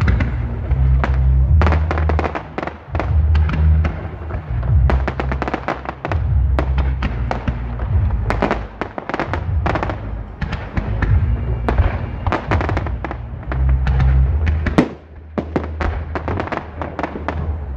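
Fireworks and firecrackers going off nonstop: a dense run of sharp bangs and crackles, with a heavy low rumble underneath that swells and fades.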